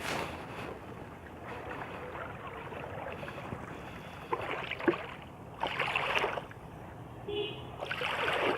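Water swishing around a small river boat under way, with a steady wash and a few louder surges about four, five and a half and eight seconds in.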